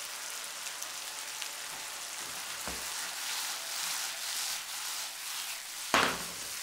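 Quartered cherry tomatoes with shallot and sugar in olive oil, sizzling steadily in a hot frying pan. About six seconds in, a sudden louder thump comes as the pan is tossed.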